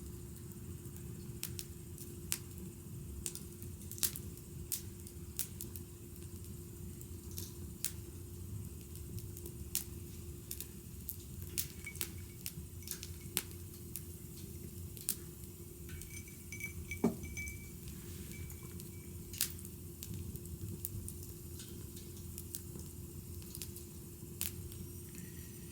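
Wood fire crackling, with irregular sharp pops and snaps over a low steady rumble and a faint steady hum.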